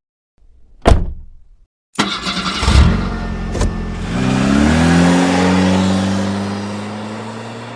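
A car engine starting with a sudden burst and then revving, its pitch rising and then holding steady while the level slowly falls. A single thump comes about a second before the engine starts.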